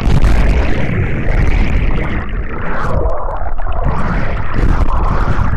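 Loud, unbroken rushing of wind and churning water on the camera's microphone during a cliff jump into water, starting abruptly.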